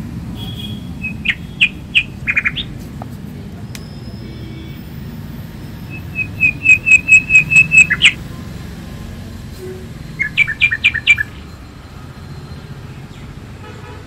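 A bird calling in three bursts of quick, repeated chirps: a short run near the start, a longer run of about nine notes in the middle, and a faster run of about five notes later. A steady low rumble sits underneath.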